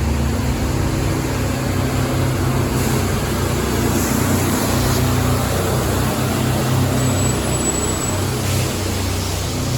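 A vehicle engine running nearby: a steady low hum with street noise.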